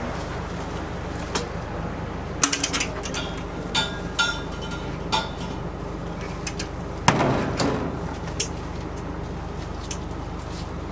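Scattered clinks and knocks of kitchen utensils and cookware being handled over a steady low hum, the loudest knock about seven seconds in.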